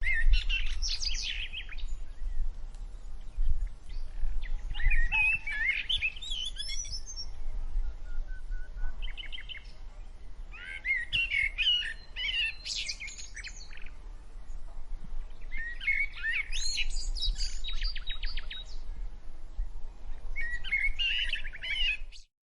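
A songbird singing in short bouts of rapid chirps, trills and warbles, five phrases with pauses of a second or more between them, over a low steady rumble.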